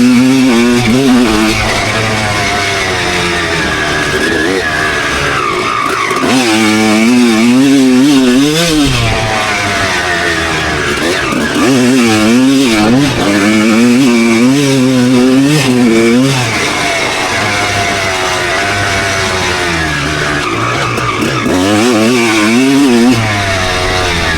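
Suzuki RM250 single-cylinder two-stroke motocross bike being ridden hard. The engine note climbs and falls over and over, wavering up and down several times a second in the loudest stretches, with quieter spells of lower running between them.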